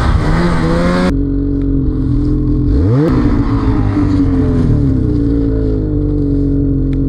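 Snowmobile engine running at high revs, with a quick rev that rises sharply about three seconds in. The sound changes abruptly about a second in.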